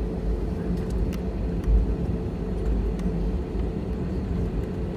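Steady low rumble and hum of an Airbus A320 heard from inside the cabin before takeoff, with a few faint clicks.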